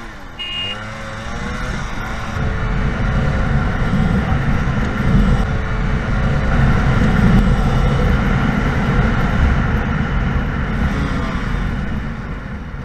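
A horn honks once as the start signal. Then a Yamaha RX-135 two-stroke and a Royal Enfield Classic 350 single-cylinder accelerate hard in a drag race, their engine pitch climbing. They grow louder to a peak midway and ease off toward the end.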